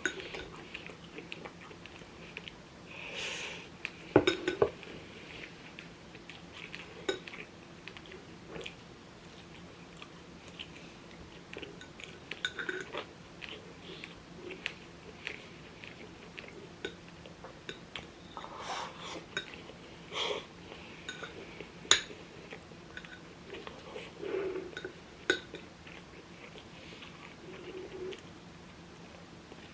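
Close-up eating sounds: chewing chicken, with scattered sharp clicks of utensils against dishes.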